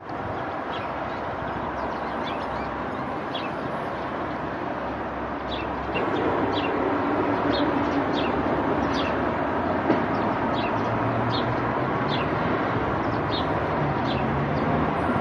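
A bird calling with short, high chirps, repeated about once or twice a second over a steady rushing background noise that grows louder about halfway through.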